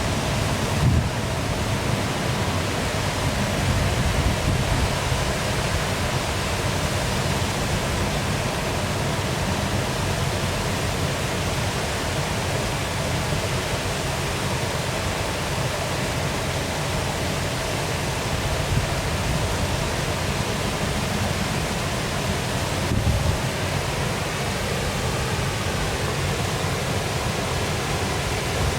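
Waterfall with water pouring and splashing in a steady rush, with brief low swells about 4 and 23 seconds in.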